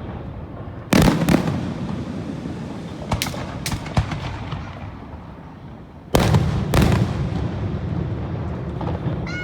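Aerial fireworks shells bursting. Heavy booms come about a second in and again around six seconds in, with a second boom close behind, and sharper cracks fall between them, all over a low rolling echo.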